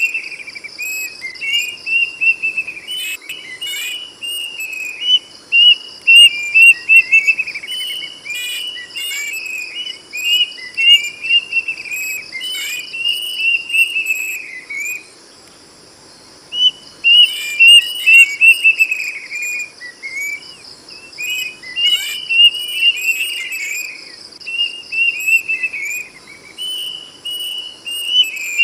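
Plaintive cuckoo (kedasih) singing loud whistled notes in repeated runs, each run sliding down in pitch, with a short pause about halfway through. A steady pulsing insect buzz, like crickets, runs underneath.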